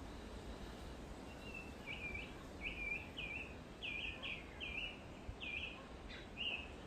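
A songbird singing a run of short, repeated, hooked notes, about two a second, starting about a second in, over a low steady background noise.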